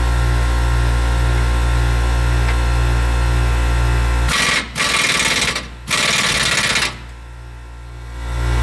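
Air impact wrench hammering in three short bursts, starting about four seconds in, as it drives the screw of a ball joint press to push a torsion key up. A steady low hum from a running air compressor lies under it.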